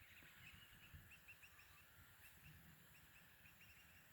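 Faint bird chirping: quick runs of short, high chirps, about five a second, twice over.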